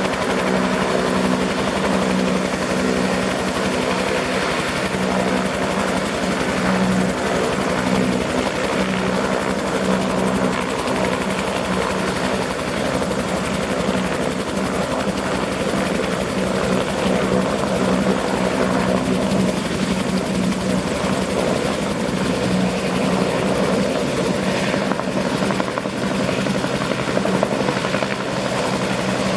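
Bell 222 twin-turbine helicopter (two Rolls-Royce 250-C30G turboshafts) running steadily, its rotor and engines producing a constant loud drone with a thin high turbine whine that rises slightly near the end.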